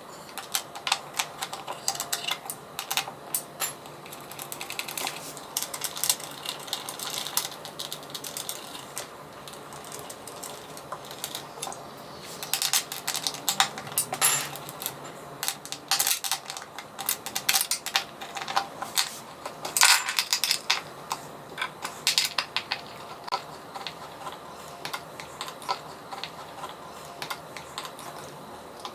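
Irregular clicking, tapping and clattering of small hard objects being handled, with a few louder clacks in the middle, over a faint low hum.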